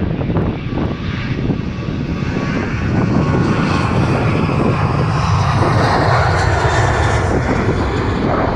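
Boeing 737-700's CFM56-7B turbofan engines at takeoff thrust: a loud, steady jet roar that grows louder and brighter about three seconds in.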